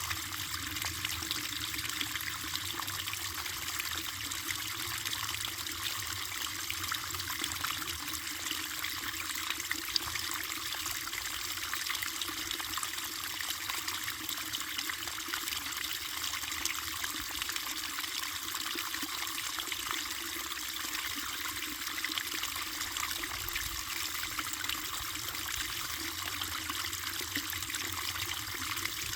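Stream water flowing and trickling steadily over stones, an even splashing rush with no pauses.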